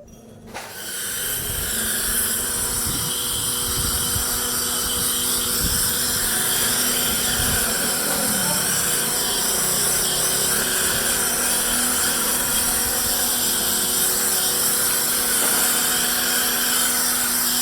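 A high-speed motorised tool starts up and then runs steadily, with a high whine and hiss over a low hum.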